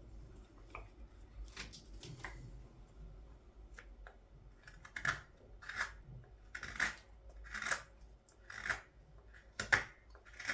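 Large scorp gouging the hollow of a wooden scoop: short scraping cuts, faint and scattered at first, then regular strokes a little under one a second from about halfway in, as the blade starts to dig into the wood.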